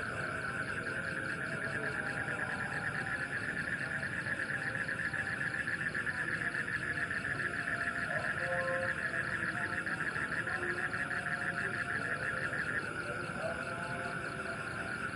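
Night chorus of frogs and insects: a steady, fast-pulsing trill with scattered short calls beneath it. The trill thins out near the end.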